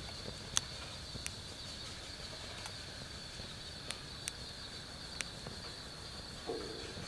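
Wood fire in a fire pit crackling, with a handful of sharp, irregular pops. Under it runs a steady high trill of night insects, and there is a brief duller sound near the end.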